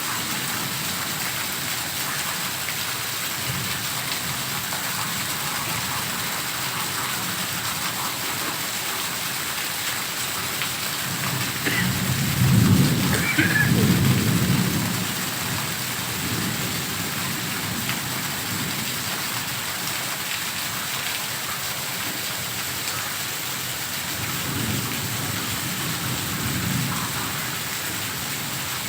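Heavy rain falling in a steady hiss. Thunder rumbles loudly for about three seconds roughly twelve seconds in, and a fainter rumble follows near the end.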